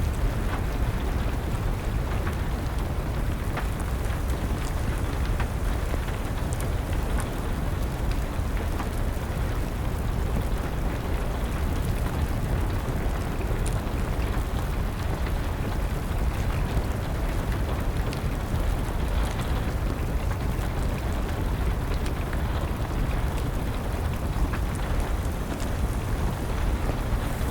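Steady rain with a low rumble underneath, and scattered sharp crackles and pops of a burning wood fire.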